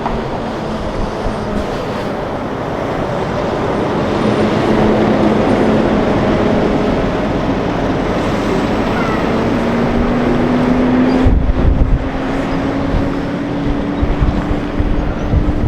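Heavy truck's diesel engine running close by amid loud road noise, its engine note rising a little about two thirds of the way through. A gust of wind hits the microphone soon after.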